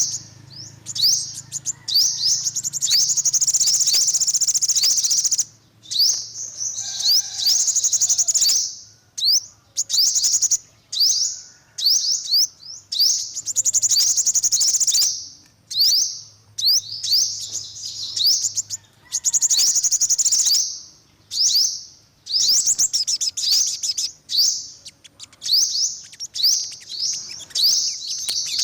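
Olive-backed (yellow-bellied) sunbird singing: repeated bursts of fast, high chirping trills, each lasting one to a few seconds, separated by short pauses.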